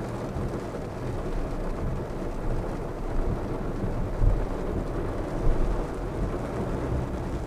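Heavy rain drumming on a car's roof and windshield, heard from inside the moving car over the low rumble of tyres on the wet road, with a couple of brief louder thumps about four and five and a half seconds in.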